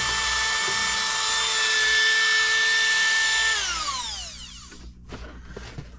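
A small power tool grinding out a hole in a 3D-printed plastic part runs with a steady high whine, then is switched off about three and a half seconds in, its pitch falling as it spins down. A few light knocks follow after it stops.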